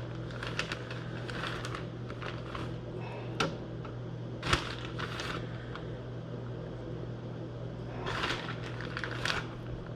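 Rustling and handling noises with a few sharp clicks as seasoned catfish pieces are taken out and laid on an air fryer pan, over a steady low hum.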